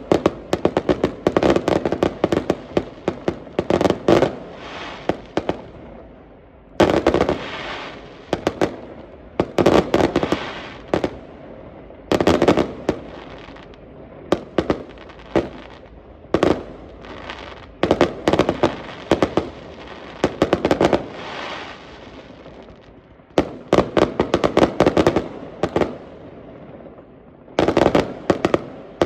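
Fireworks going off: repeated sharp bangs and quick runs of crackling cracks, coming in clusters every second or two with brief lulls between.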